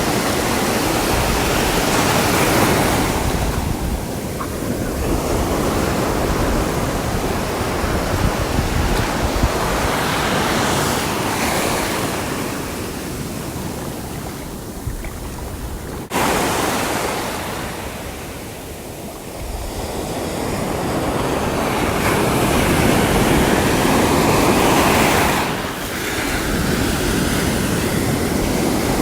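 Sea waves breaking and washing in, the surf swelling and easing every few seconds. About halfway through, the sound jumps suddenly louder.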